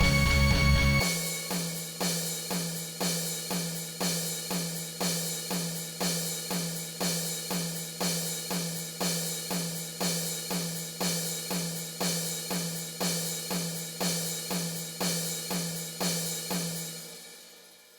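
Heavy metal song outro. About a second in, the full band drops out and leaves a drum kit playing a steady, even beat of drum and cymbal hits, which fades out near the end.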